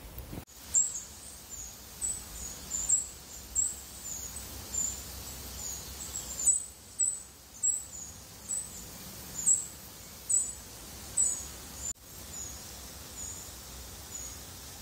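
A small bird calling with a long run of short, thin, very high chirps, about one or two a second, over a faint low rumble.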